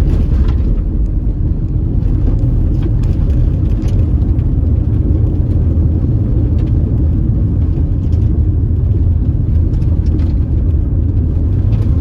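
Steady low rumble of a car driving, heard from inside the vehicle: tyre and engine noise on the road, with faint scattered ticks.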